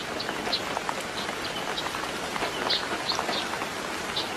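Steady rain falling and pattering, with scattered short high chirps or ticks over it.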